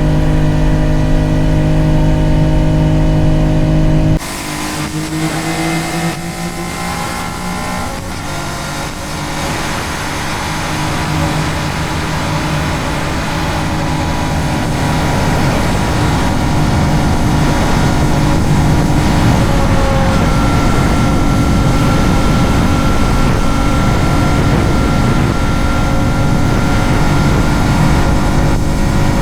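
Honda Dax 125's single-cylinder four-stroke engine running at a steady pace, then after about four seconds changing abruptly and pulling away with rising revs. Wind noise on the microphone grows as the bike picks up speed.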